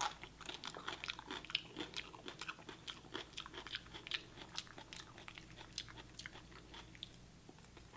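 A person chewing a mouthful of cold cucumber soup close to the microphone: many small, irregular wet crunches and mouth clicks.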